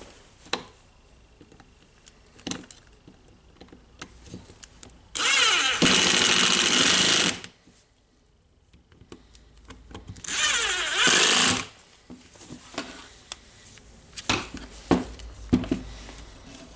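Electric screwdriver driving two screws in two runs of about two seconds and a second and a half, the second run falling in pitch as it slows. Small clicks and knocks of parts being handled between the runs.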